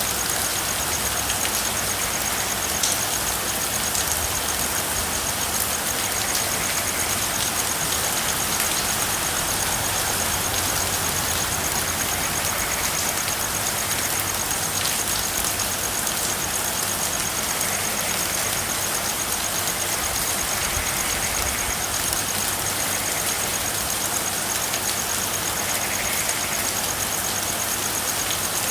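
Steady rain falling, with a continuous high-pitched pulsing trill and a few faint calls from frogs now and then.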